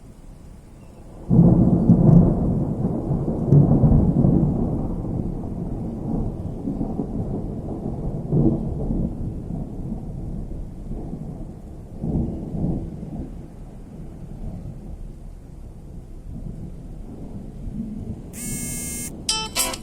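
A close thunderclap breaks out about a second in and rolls on as a long low rumble, swelling again several times as it fades, over the steady hiss of rain.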